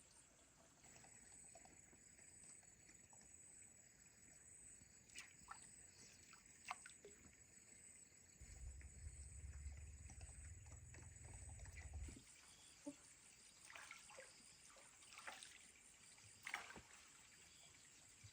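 Near silence: faint background ambience with a few soft clicks and a brief low rumble in the middle.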